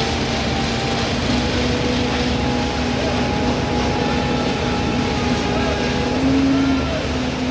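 Diesel engine of an Ajax Fiori 4300 self-loading concrete mixer running steadily with a continuous droning hum, its pitch lifting slightly for a moment about six seconds in.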